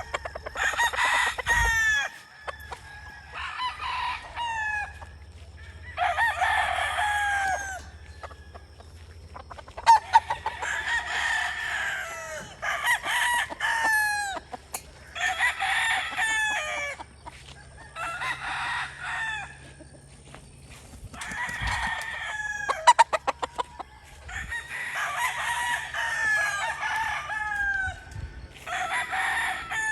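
Several roosters crowing again and again, one crow after another and sometimes overlapping, each lasting a second or two. A few sharp clicks come about a third of the way in and again past two-thirds.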